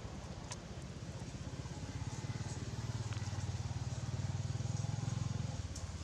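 A low engine rumble that swells about two seconds in and drops away near the end, as of a motor vehicle passing.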